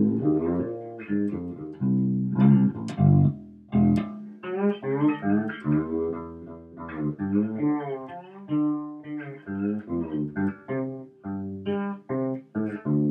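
Wolf KTB six-string fretless electric bass played as a run of plucked notes, some sliding smoothly in pitch between notes.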